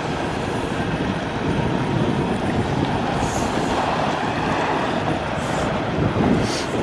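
Wind buffeting the microphone, with a semi truck running as it makes a wide turnaround. There are a few brief high hisses: about three seconds in, and twice near the end.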